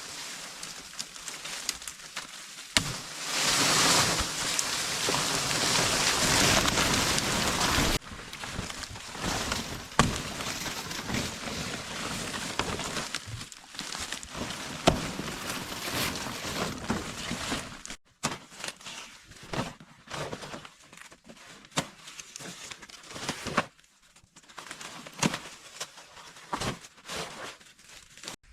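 Rustling and crackling, with a dense stretch of steady rustle early on, then irregular sharp clicks and knocks with short pauses.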